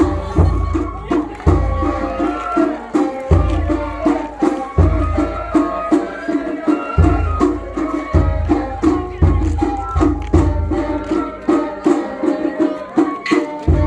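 Japanese festival-float hayashi music: deep drum beats and fast, even lighter drum strikes under a held melody line, winding down near the end with a final sharp strike.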